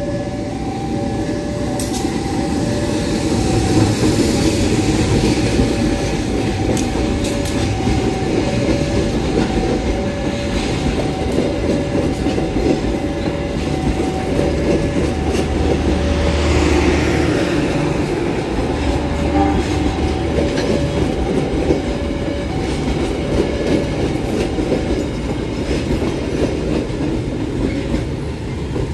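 Diesel-electric locomotive hauling a passenger train through a level crossing: the engine rumbles and the wheels clack over the rail joints, loudest as the locomotive goes by in the middle. Behind it the crossing's warning signal repeats a two-tone chime in an even on-off rhythm.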